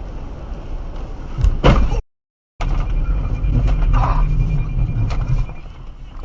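Vehicle noise picked up by a dashcam, broken by a loud crash-like impact about a second and a half in. After a short silent cut, a second stretch of loud low vehicle rumble follows, with a few knocks.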